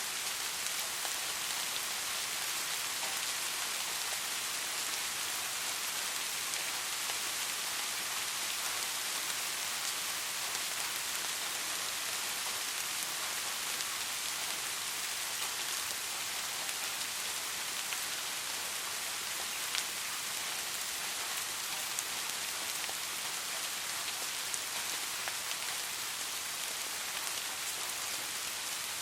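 Steady soft rain: an even hiss of falling rain with occasional individual drop ticks.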